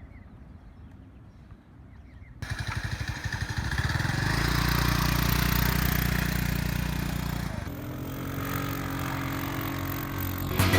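1985 Honda Elite 250 scooter's single-cylinder engine starting about two seconds in, running up loud and steady, then dropping abruptly to a lower, even note a few seconds before the end.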